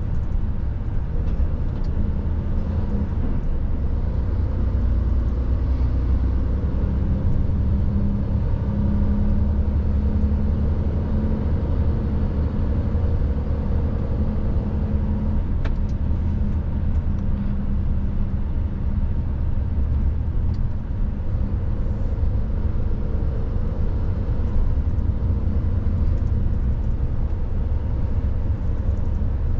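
Mercedes truck's diesel engine running steadily while driving, a continuous low drone with road noise. The engine note strengthens for a few seconds midway, and there is a single light click.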